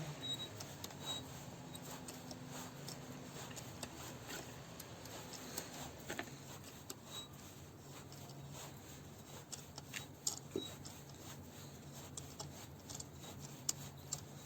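Faint, irregular small clicks and scrapes of a hand-turned puller forcing a plastic blower-motor fan off its metal shaft.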